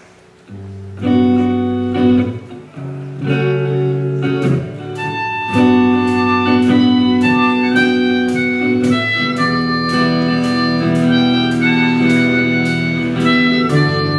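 Accordion playing an instrumental introduction: sustained reedy chords over a moving bass line, with a steady beat, starting about half a second in.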